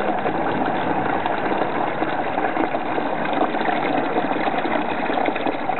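Dirty caustic soda solution draining out of a petrol tank's tap opening and splashing into a container below, a steady spattering pour.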